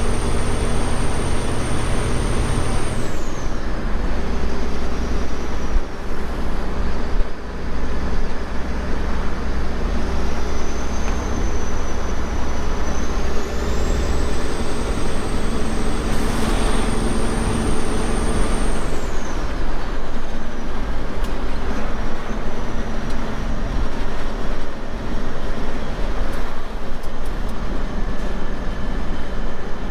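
Semi truck's diesel engine running while driving, a steady drone with a high thin whistle that drops a few seconds in, climbs back around the middle, and drops again about two-thirds of the way through as the engine load changes.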